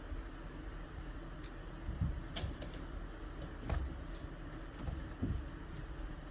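A kitten playing with a toy: a few soft thumps and sharp clicks, spread out irregularly over a steady low background hum.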